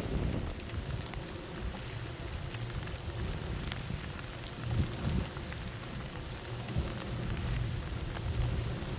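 Storm ambience: rain falling steadily with scattered drop ticks over a low, fluctuating rumble of wind.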